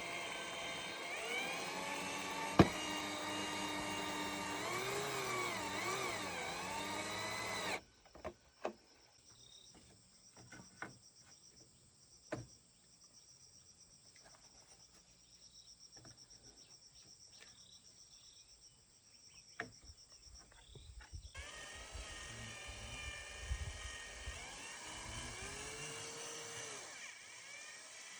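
Outdoor ambience of many overlapping animal calls, birds and insects, that breaks off sharply for a quieter stretch of scattered knocks and taps, then resumes.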